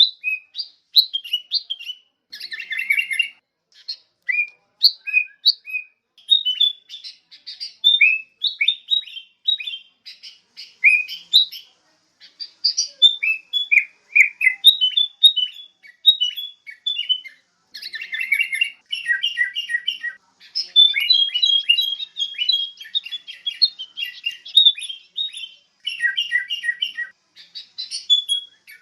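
Sooty-headed bulbul calls: a steady stream of short chirps and whistled notes in quick runs, with brief gaps between phrases.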